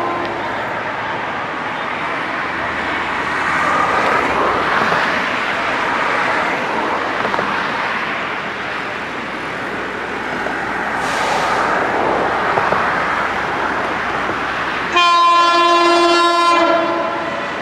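A train running past with a steady rush of wheel and rail noise, rising and falling. About 15 seconds in, a loud railway horn sounds one steady-pitched blast of about a second and a half, then cuts off. The end of an earlier horn note is heard at the very start.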